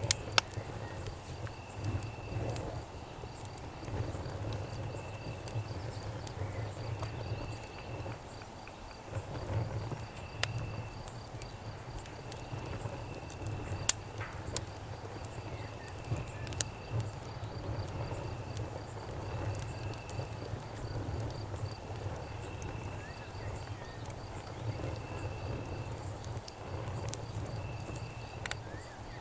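Crickets trilling in short, evenly spaced bursts about every two seconds over a campfire crackling with scattered sharp pops, the loudest about halfway through. A steady low rumble runs underneath.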